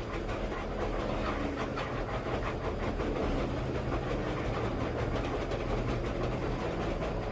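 Vehicle running with a steady low rumble and a constant clatter and rattle.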